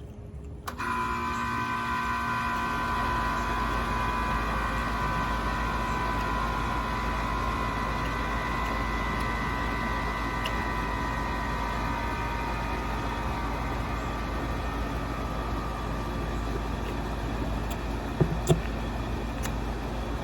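A machine switches on abruptly about a second in and keeps running steadily, with a low hum under a whine of several held tones that slowly fade.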